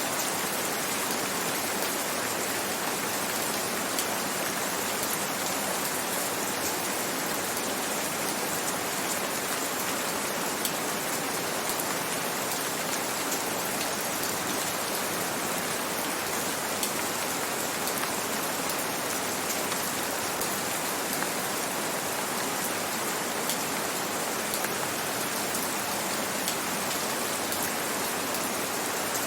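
Gentle rain falling steadily: an even hiss with scattered faint drop ticks, with no change throughout.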